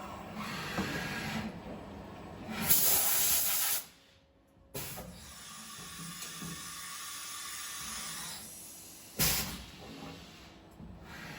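A compressed-air blow gun hissing in two blasts at a CNC mill: a longer blast of about a second around three seconds in and a short one near the end, over low shop noise.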